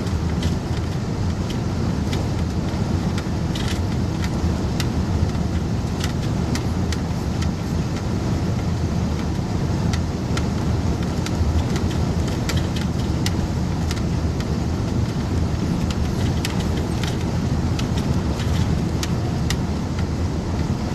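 Tow truck driving at highway speed, heard from inside the closed cab: a steady low rumble of engine and road noise with occasional light clicks and rattles.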